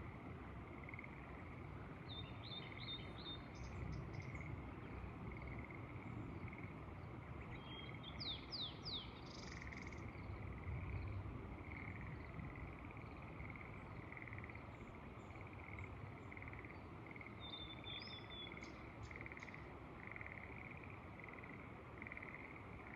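Frogs calling in a steady, pulsing chorus, with short bird calls breaking in three times: a couple of seconds in, about eight seconds in, and near eighteen seconds. A low rumble of wind runs underneath.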